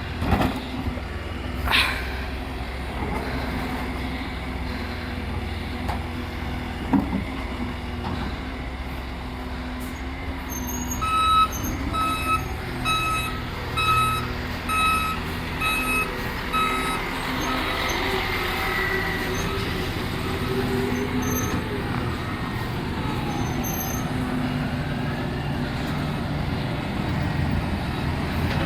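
Recycling collection truck's engine running steadily, with a few sharp clanks in the first couple of seconds. In the middle its reversing alarm beeps evenly, about two beeps a second for some six seconds.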